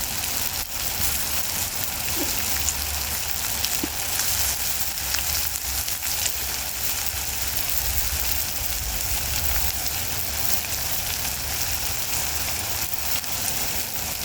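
Campfire burning with a steady hiss and crackle, scattered small pops through it.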